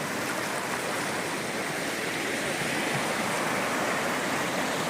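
Steady, loud rush of water pouring down a waterfall.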